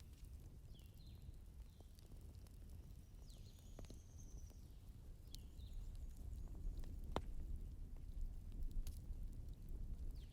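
Wood fire burning in a fireplace: a low, steady rumble with scattered crackles and a few sharp pops.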